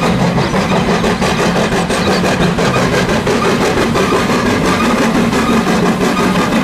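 Loud, steady engine running, with a fast even throb.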